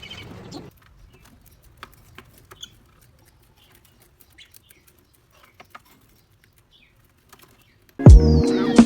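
Faint, scattered small clicks and soft chirps from small pet birds moving about. Loud music starts near the end.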